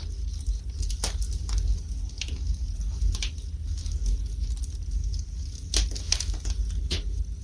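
Wood burning in a fireplace, crackling with irregular sharp pops, about eight in a few seconds, over a low steady rumble.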